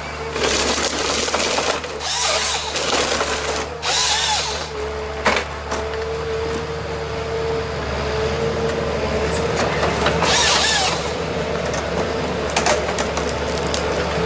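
A powered cutting machine running with a steady high whine, broken by several harsh bursts of cutting noise of about a second each, and one sharp knock.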